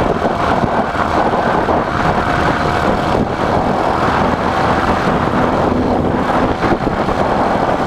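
Small engine of a motorized bicycle running steadily while riding.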